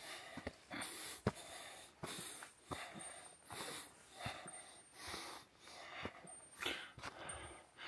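A hiker breathing hard while climbing, with quick rhythmic breaths about every three-quarters of a second, and a few sharp clicks of footsteps or trekking poles in between.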